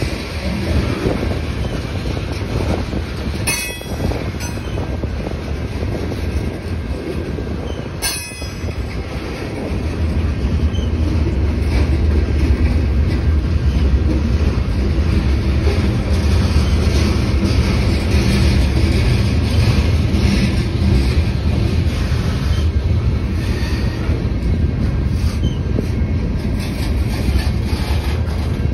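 Freight train's covered hopper cars rolling past: a steady rumble and clatter of steel wheels on rail. Two brief sharp sounds come about four and eight seconds in, and the low rumble grows louder from about ten seconds in.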